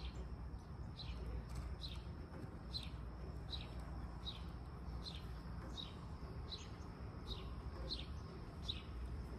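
A bird calling over and over: short, high falling whistled notes, about three every two seconds, over a low steady rumble.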